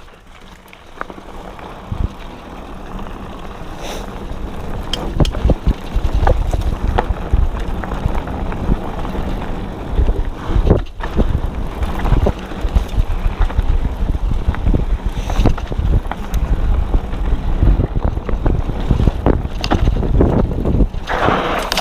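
Wind rushing over the microphone while a Diamondback Line hardtail mountain bike rides a rough dirt trail, with scattered clicks and rattles from the bike. It grows louder over the first several seconds as speed builds.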